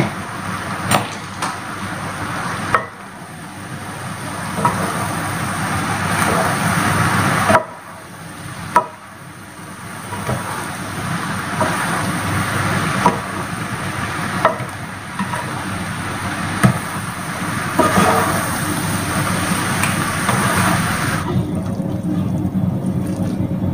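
Rice noodles sizzling in a large nonstick pan as they are stir-fried and tossed with a spatula, with short clacks of the utensil against the pan every second or two. The sizzle drops off near the end.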